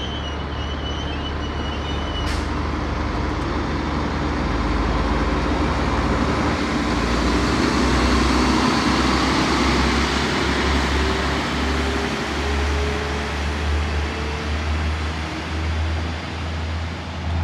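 Network Rail Multi-Purpose Vehicle's diesel engines running under power as it pulls away and passes, a heavy steady hum with a tone that rises slowly in pitch as it picks up speed, loudest about halfway through. A single brief click about two seconds in.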